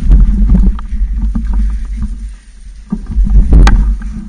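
Heavy wind rumble on the microphone of a camera riding along on a mountain bike, with scattered clicks and knocks from the bike rattling over rough ground. The rumble dies down briefly about two seconds in, then comes back.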